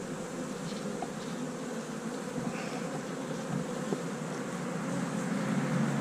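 Honey bees buzzing steadily around an open hive during a frame-by-frame inspection, growing louder near the end.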